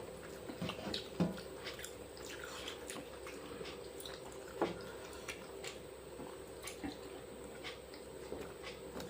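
Close-up eating sounds of panta bhat, rice soaked in water, with fried sides: irregular wet squishing, chewing and small clicks, with a couple of sharper ticks. A faint steady hum runs underneath.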